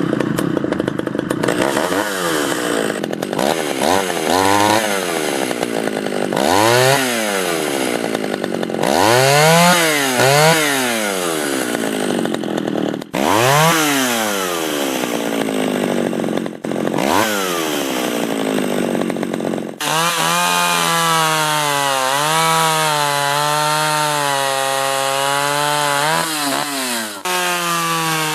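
Echo 440 EVL two-stroke chainsaw running loud. It is revved up and down about six times, then from about twenty seconds in it is held at high speed with its pitch wavering slightly, as when it is cutting into wood.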